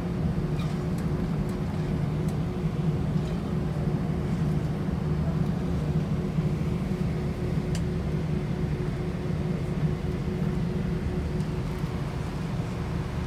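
Airbus A320 cabin noise with the engines at idle while the aircraft waits to take off: a steady low hum with one steady tone, and a few faint clicks. The sound stays even throughout, with no build-up of a takeoff roll.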